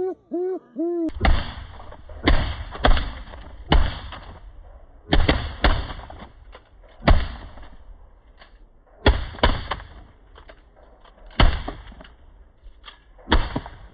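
A few honks on a goose call, then shotgun shots fired in quick groups of two or three, about a dozen in all, each with a ringing tail.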